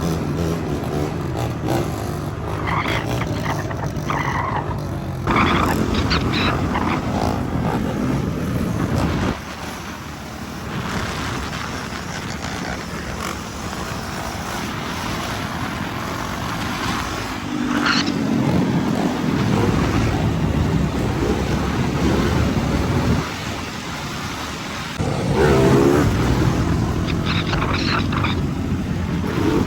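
Dirt bike engines running and revving, rising and falling in pitch and level several times.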